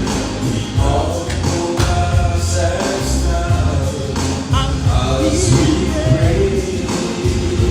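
A choir singing gospel music over a band with a steady bass beat.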